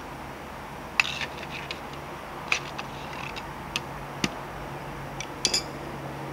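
Scattered sharp clicks and taps of hand work on motorcycle exhaust hardware, about six in all. The loudest is about a second in.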